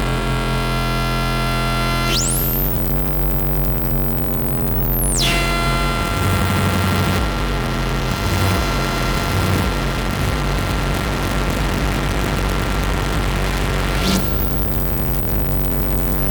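Electronic music from hardware synthesizers: steady droning tones over a low pulsing bass. A high gliding sweep rises about two seconds in, falls back about three seconds later, and rises again near the end.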